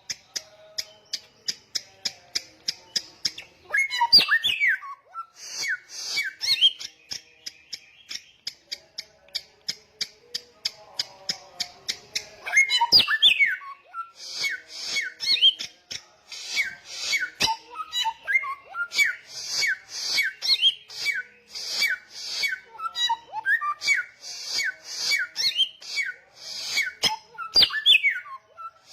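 Samyong songbird singing loudly and persistently: runs of rapid, evenly repeated high chattering notes alternating with sharp, loud whistles that slide down in pitch.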